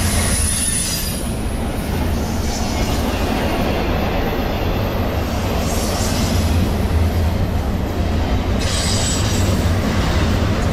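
Double-stack intermodal well cars of a freight train rolling past close by: a steady low rumble of steel wheels on rail, with brief high-pitched wheel squeal near the start and again about nine seconds in.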